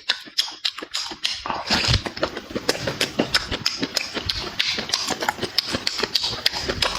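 Close-miked eating: rapid wet chewing and smacking mouth clicks, denser and louder from about a second and a half in.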